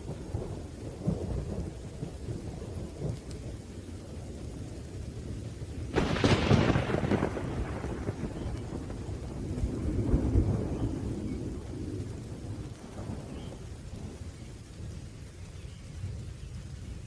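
Thunderstorm: rolling thunder rumbling over steady rain, with a sharp thunderclap about six seconds in that rumbles away over several seconds, and another swell of thunder a few seconds later.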